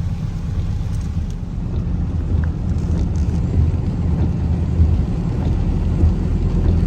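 Car cabin noise while driving: a steady low rumble of engine and road, heard from inside the moving car.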